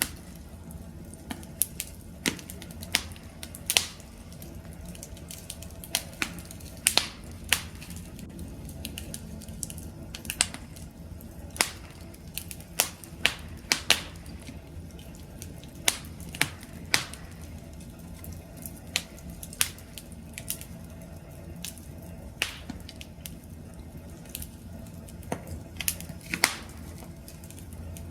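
Wood campfire crackling: irregular sharp pops and snaps, a few louder ones scattered through, over a steady low rumble of the burning flames.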